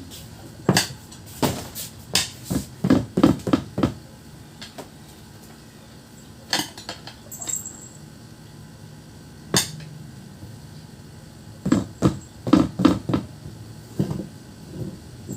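Hammer blows and clanks on metal during wheel repair work, coming in irregular clusters of several quick sharp strikes with pauses between.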